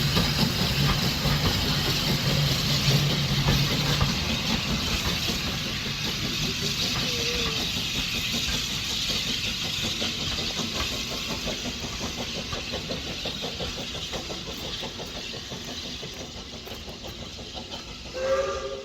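A steam-hauled train running past on the railway, its rumble and hiss fading steadily as it draws away. A brief pitched sound comes near the end.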